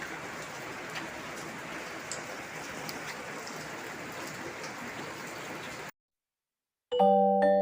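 Steady rain falling, an even hiss with scattered faint drip ticks, which cuts off suddenly about six seconds in. After a second of silence, music of struck, chiming mallet notes begins near the end.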